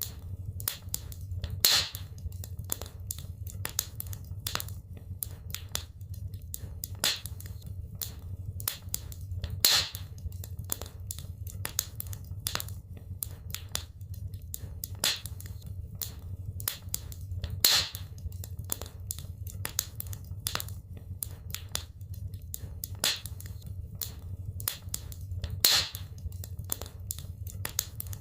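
Wood fire crackling in a fireplace: a dense, irregular stream of small snaps and pops over a steady low rumble of flame, with a louder pop about every eight seconds.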